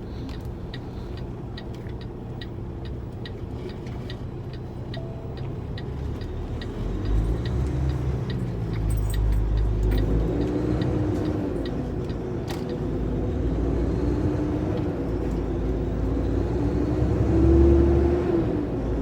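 Turn signal clicking steadily in the cab of a 2015 Kenworth T680 semi truck, stopping about ten seconds in. The truck's diesel engine is running underneath and grows louder from about seven seconds in, its pitch rising and falling as it pulls up through the gears onto the highway.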